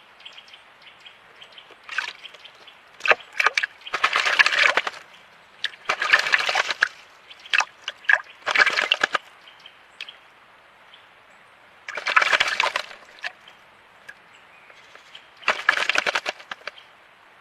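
Small birds bathing in shallow running water, splashing with their wings in short bursts of about a second, seven or so times. A steady trickle of running water underneath.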